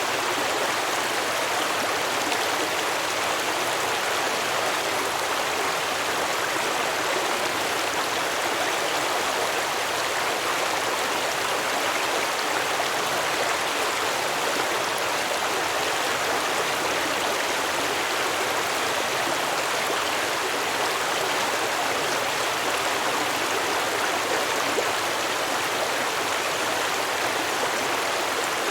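Stream water flowing and babbling over rocks, a steady, even rush.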